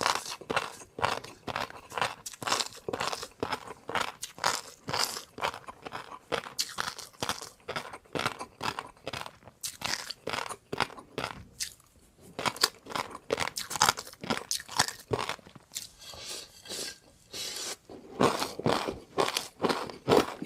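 Someone chewing crunchy food close to the microphone: a steady run of loud crunches, a couple a second, with a brief pause about halfway.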